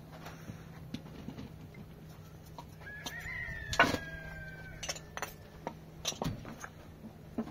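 A single long pitched animal call, about two seconds long, from about three seconds in, over scattered clicks and knocks and a steady low hum.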